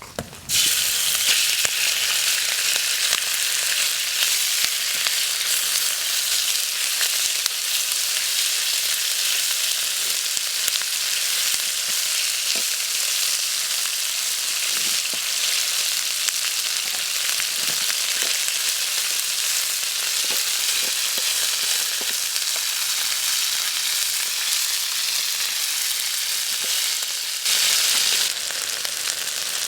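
Food frying in a pan over a wood fire, a steady loud sizzle with a few faint pops, swelling briefly a little before the end.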